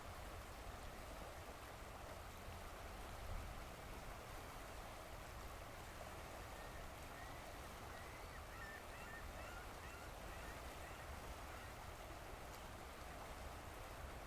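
Steady, faint rush of flowing river water, with a few faint, short bird calls about seven to eleven seconds in.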